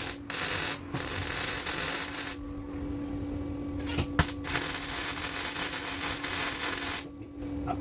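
Welder working on a car exhaust in two long bursts of sizzling hiss and a few short ones, each starting and stopping abruptly, over a steady hum.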